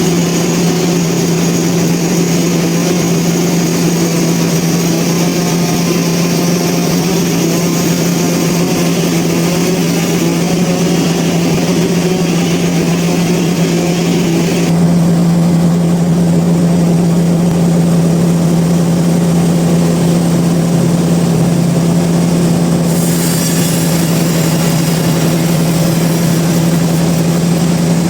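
Sawmill machinery running steadily with a constant loud hum. A higher hiss over the hum drops away about halfway through and comes back later.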